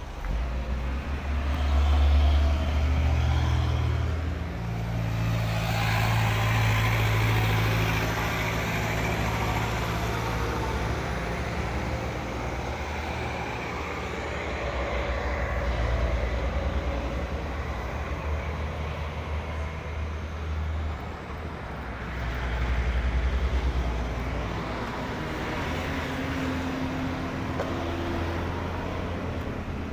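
Heavy truck engines running low and steady, swelling louder several times as the trucks move.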